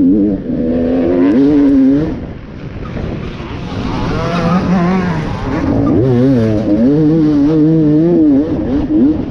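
Enduro dirt bike engine revving hard and easing off again and again, its pitch rising and falling as the throttle is worked; the revs drop off about two seconds in and build back up by the middle.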